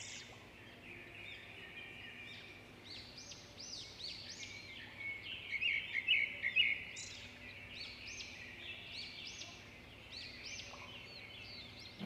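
Several small birds chirping in a continuous, overlapping chorus of short high arching notes, fairly faint.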